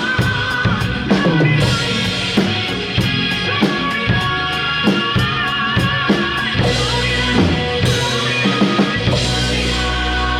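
A drum kit played along to a recorded song with sung vocals, kick and cymbal hits keeping a steady beat under the track. The drummer's timing is creeping slightly ahead, gradually speeding up.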